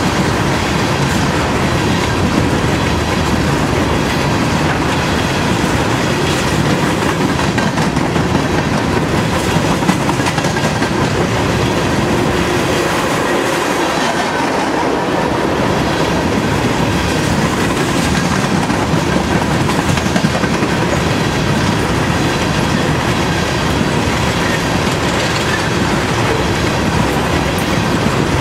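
Loaded coal hopper cars of a long freight train rolling past: a steady, loud rumble and clatter of steel wheels on the rails, with no break.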